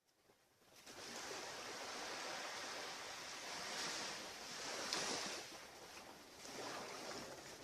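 Ocean surf washing onto a beach: a steady hiss of waves that swells and eases a few times. It fades in about a second in, after a moment of silence.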